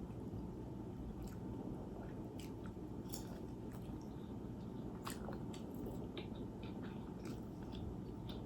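A person chewing and biting food close to the microphone, with small clicks and light crunches scattered through.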